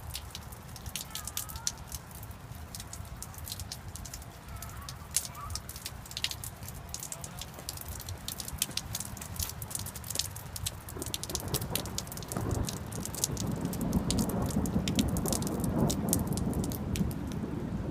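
Rain dripping and pattering as many sharp drop clicks. From about eleven seconds in, a low rumble of thunder builds and grows louder.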